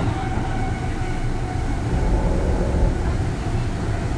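Kintetsu 3200 series electric train heard from inside motor car Mo 3205 while running: a steady rumble of wheels and motors on the rails, with faint steady whine tones above it. The car is driven by an early Mitsubishi GTO VVVF inverter, known for its growling noise.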